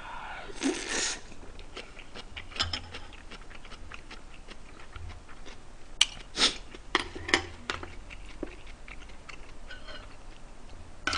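Close-miked chewing of a mouthful of spicy beef bulgogi with pickled celery: wet mouth sounds and a string of small crunches from the celery, with a few sharper crunches partway through.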